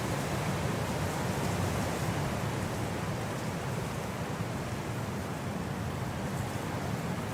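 Winter wind as a steady, even rushing noise, heaviest in the low end, with no distinct gusts.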